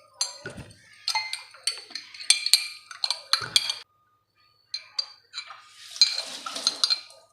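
A metal spoon clinking against a bowl as beaten egg is spooned in: a quick run of sharp, ringing taps, a pause of under a second, then a few more taps and a short scrape near the end.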